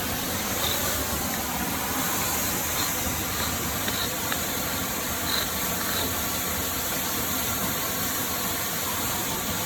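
Steady rushing of a waterfall and creek, an even hiss with no change, with a few faint short high chirps in the first half.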